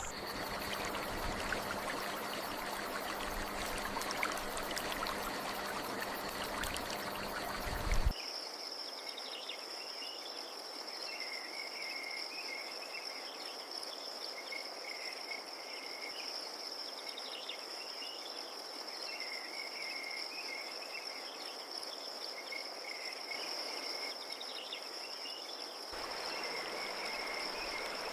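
A steady rushing noise cuts off abruptly about eight seconds in. It is replaced by a continuous high-pitched trill of crickets with scattered short bird chirps below it.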